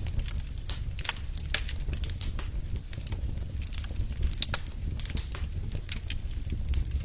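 Fire burning in a fireplace: quick, irregular crackles and snaps, several a second, over a steady low rumble of the flames.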